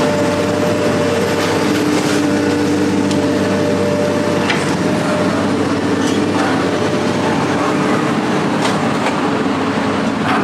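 A motor vehicle running steadily, a continuous drone with a few steady tones through it and scattered clicks and rattles.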